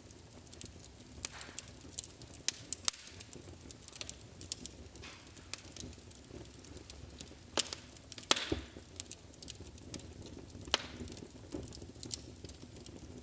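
Wood fire in a fireplace crackling: irregular sharp pops and snaps over a low steady hiss of burning, with a few louder pops about 3 seconds in and around 8 seconds.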